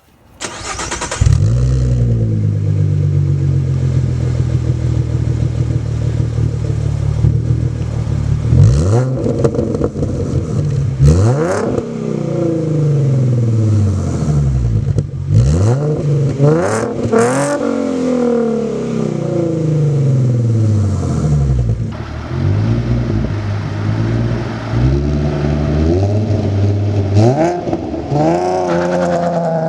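2017 Ford Mustang exhaust through SLP LoudMouth mufflers mounted at the rear behind an X-pipe, the engine starting up about a second in and then revved repeatedly, the pitch climbing quickly and falling back more slowly each time.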